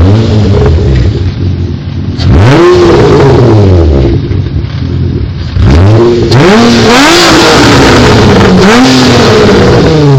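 Car engine breathing through a loud aftermarket exhaust, revved from idle four times: one rev about two seconds in, then three quick revs in a row in the second half, each rising sharply in pitch and falling back.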